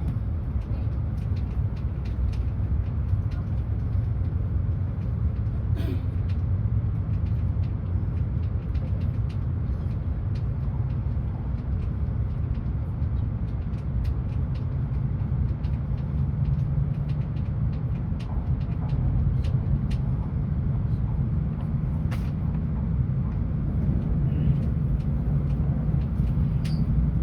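Hokuriku Shinkansen train running along the track, a steady low rumble with a few faint clicks.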